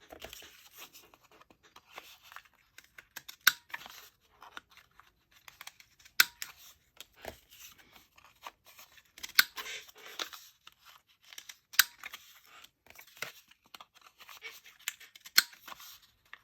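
Paper being worked by hand with a craft tool: dry scratching and rubbing, with a sharp click every two to three seconds.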